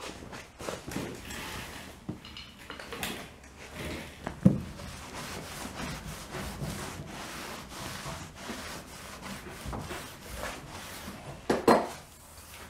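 A pad rubbing cutting compound by hand onto a canoe's hull: a continuous scrubbing, with a couple of short knocks, one about a third of the way in and one near the end.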